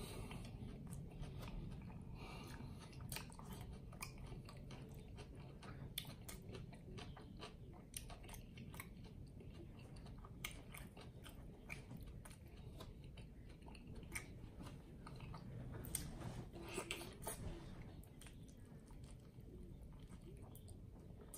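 Faint close-miked chewing of a soft cheeseburger: wet mouth smacks and small clicks throughout, thickening into a short run of louder smacks about three quarters of the way through.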